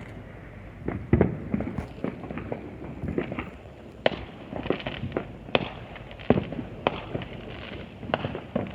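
Distant consumer fireworks and firecrackers going off, a steady run of irregular sharp pops and bangs, several a second at times, with a louder bang about four seconds in.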